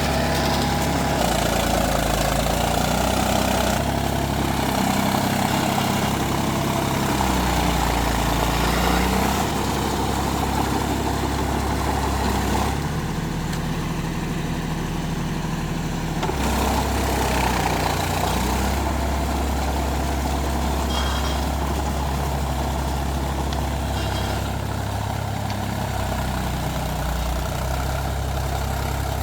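Mahindra 275 DI TU tractor's three-cylinder diesel engine running steadily, its engine note shifting up and down several times.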